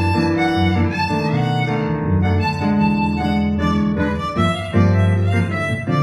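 Live instrumental music: a bowed violin carries the melody over guitar accompaniment and a low bass line.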